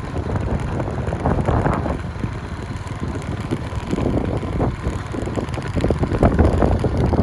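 Wind buffeting the microphone in a steady low rumble that swells in gusts, with the sound of a boat on the water beneath it.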